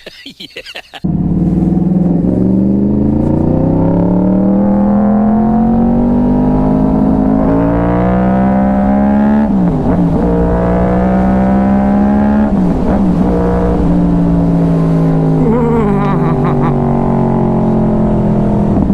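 2012 Yamaha R1's crossplane inline-four engine, which cuts in suddenly about a second in and pulls hard under acceleration, its pitch climbing steadily. It drops at an upshift about ten seconds in, climbs again and shifts up once more near thirteen seconds, then holds a fairly steady pitch.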